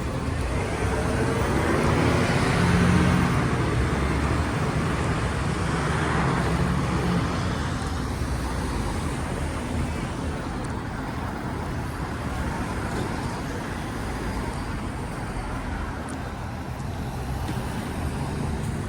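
Road traffic: cars going by on a city street, with two louder passes in the first several seconds and a steady traffic rumble after.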